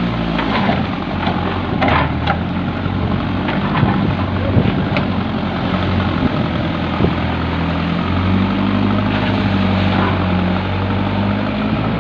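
JCB backhoe loader's diesel engine running steadily, its low note shifting about eight seconds in, with a few short knocks early on.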